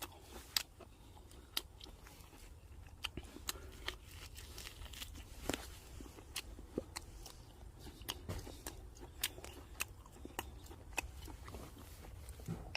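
Close-up sounds of a person chewing and biting grilled pork ribs, with irregular sharp wet clicks and crunches.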